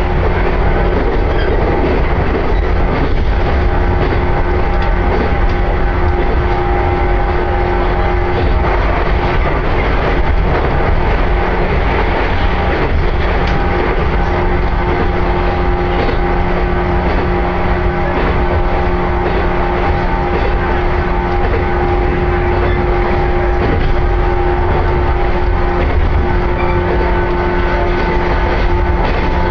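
Train running at a steady speed, heard from inside the passenger car: a steady rumble with a constant hum of several pitches over it.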